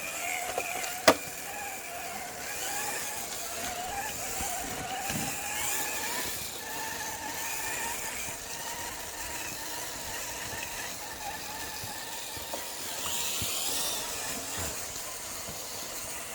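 Electric motor and geartrain of RC crawler trucks whining as they crawl along a trail, the pitch drifting up and down with the throttle. One sharp click sounds about a second in.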